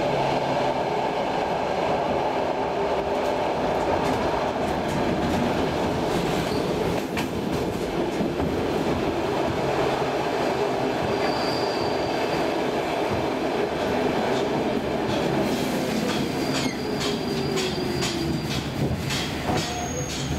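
Saltsjöbanan Class C10 electric train heard from inside the carriage, rolling steadily and then slowing as it pulls into a station. A whine falls in pitch as it slows. In the last few seconds there are more frequent clicks of the wheels over rail joints and points, and a few brief high squeals.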